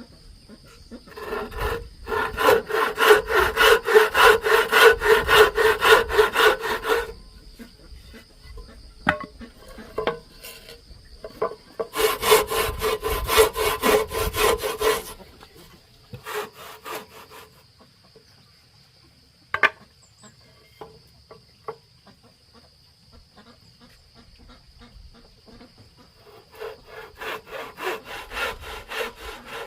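A handsaw cutting wood in runs of quick, even strokes: a run of about five seconds from about two seconds in, another around twelve seconds in, and a third starting near the end, with a few scattered strokes between.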